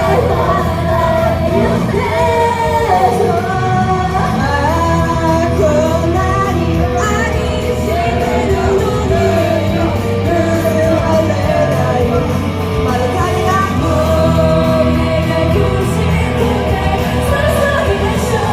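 Live idol pop performance: singing over a loud backing track with a steady beat.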